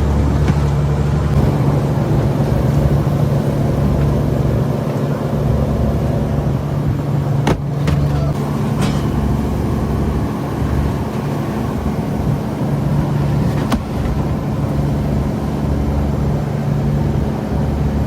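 Fishing boat's engine running steadily with a low hum, with two sharp knocks about halfway through and again near the end.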